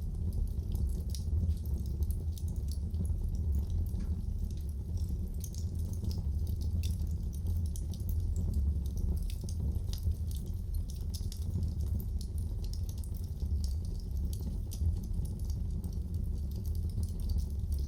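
Wood fire burning in a fireplace: a steady low rumble of the flames with many small, irregular crackles and pops throughout.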